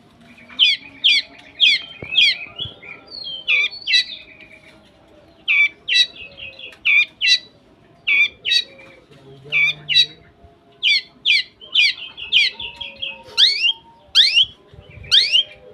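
Long-tailed shrike (cendet) calling: a long run of short, sharp, harsh notes, often two or three a second with brief pauses, turning into quick rising sweeps near the end.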